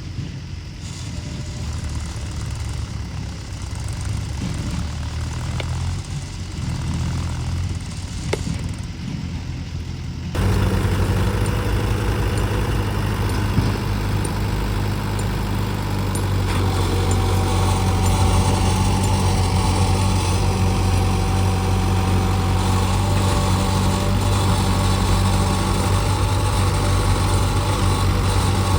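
Tractor diesel engine running steadily. About ten seconds in it abruptly becomes louder and fuller, then holds steady.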